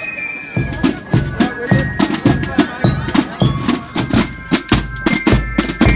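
Drums beating a steady, fast rhythm of about three to four strokes a second, with deeper bass-drum strokes joining near the end.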